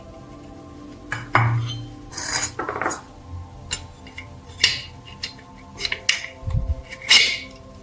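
Metal parts clinking and knocking against each other as they are handled, with a few short scraping or rubbing swishes, over faint background music.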